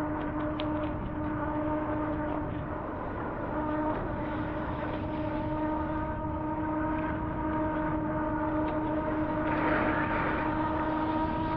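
Electric motor whine from a HappyRun G18 Pro fat-tire e-bike under way, one steady hum that creeps slightly up in pitch as the bike gathers speed. Under it runs the constant rush of tyres and wind on a wet road, with a brief hiss of spray about ten seconds in.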